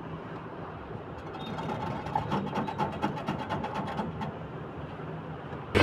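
Window air conditioner fan running, with a rapid, regular ticking of several clicks a second for about three seconds in the middle. The fan blade is loose on its shaft and wobbles at low speed, touching the housing as it turns.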